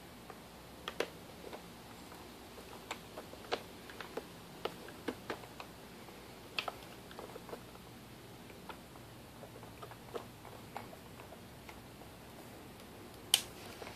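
Scattered light plastic clicks and taps as a headlamp assembly and its twist-in bulb sockets are handled and fitted, with one sharper click near the end.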